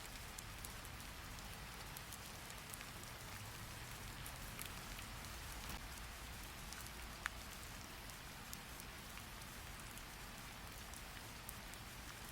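Steady rain falling, with scattered light ticks and one sharper tick about seven seconds in.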